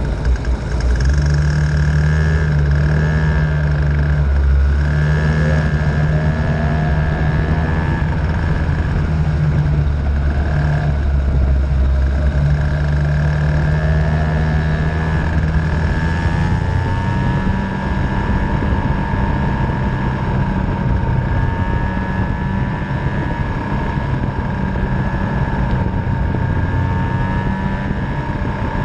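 50cc Venom two-stroke racing engine running steadily, its pitch shifting up and down every few seconds as it is driven.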